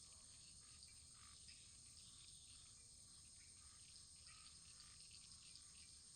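Faint wood fire burning, with scattered soft crackles over a steady hiss.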